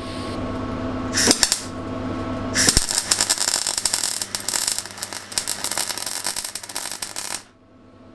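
Welding arc crackling on steel: a short tack about a second in, then a longer weld run of several seconds that stops abruptly near the end, over a steady electrical hum.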